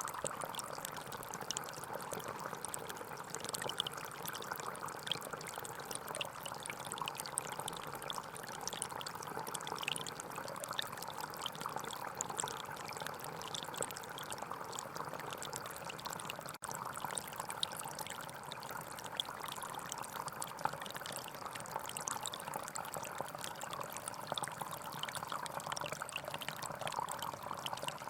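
Small forest stream flowing and trickling steadily over stones, with a brief dropout a little past halfway through.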